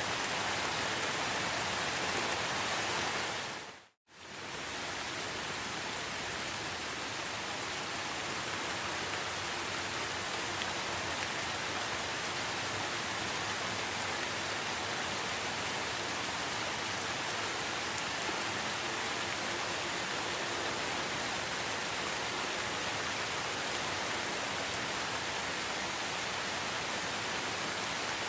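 Steady rainforest rain, an even hiss with no distinct drops or calls standing out. About four seconds in it fades briefly to silence and comes straight back.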